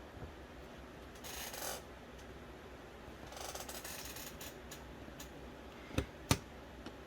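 Parts of an original Xbox Philips DVD drive being handled during disassembly: two brief scraping, rubbing noises, the second with a fast ratcheting ripple, a few light clicks, then two sharp knocks near the end.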